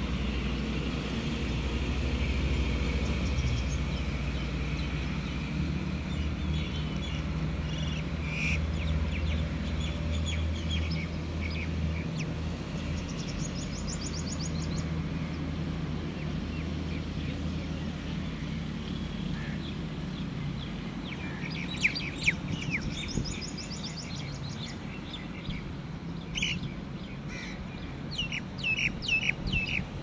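Birds chirping and calling on and off, with a quick trilled run just before the middle and a busier cluster of calls in the last third. A steady low rumble runs underneath.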